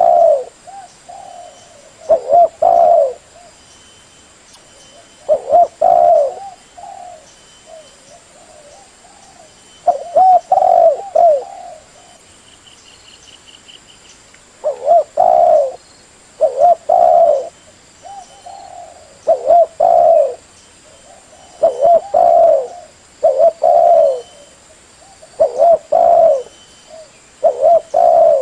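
Spotted dove (tekukur) cooing: repeated phrases of a few low notes, each phrase about a second long. The phrases come every few seconds at first, then about every two seconds from halfway through.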